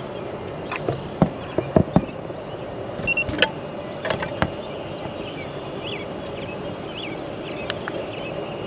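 Outdoor background noise with several sharp clicks and knocks in the first half, then short repeated bird chirps in the second half.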